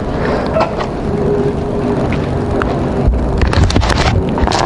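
Single-cylinder dual-sport motorcycle engine running at low speed, with a few sharp clicks and a louder low rumble about three to four and a half seconds in.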